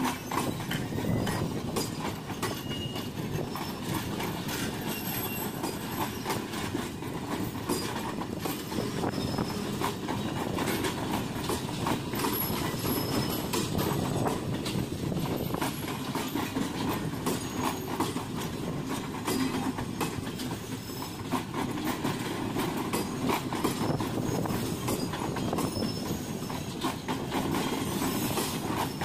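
Pakistan Railways passenger coaches rolling past close by, with a steady rumble of wheels on rails and quick repeated clicks as the wheels cross rail joints.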